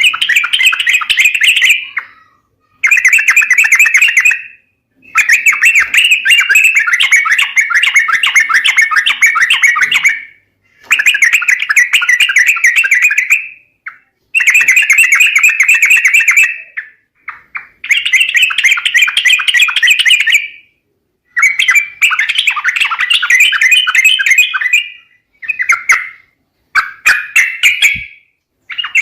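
Yellow-vented bulbul (trucuk) calls played as a bird-lure recording: loud bouts of fast, chattering notes, each a second to three seconds long, repeated with short pauses throughout.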